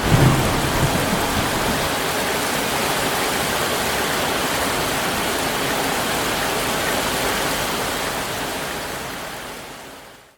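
Steady hiss of heavy rain, with the low rumble of a thunderclap dying away in the first second; the rain fades out over the last two seconds.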